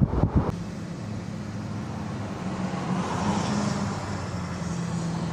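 Wind buffets the microphone and cuts off suddenly about half a second in. A steady motor vehicle hum with a low drone follows, the sound of a car engine and road noise.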